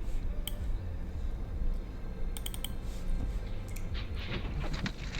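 Computer keyboard clicking: a few scattered keystrokes, then a quick run of keys about four seconds in, over a low steady rumble.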